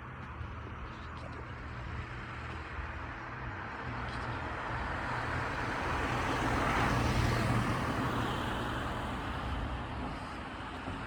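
Engine noise of a passing vehicle, a rushing sound over a low hum that swells slowly to a peak about two thirds of the way through and then fades.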